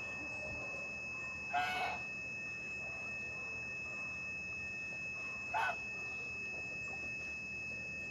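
Two short chicken calls, the first about a second and a half in and a shorter one about five and a half seconds in, over a steady high-pitched background tone.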